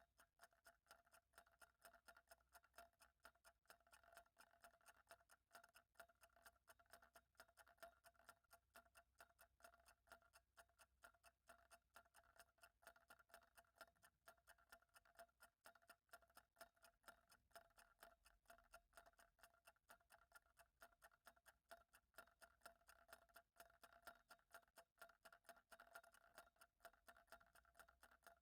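Faint clock ticking in quick, even ticks, with a faint steady tone under it.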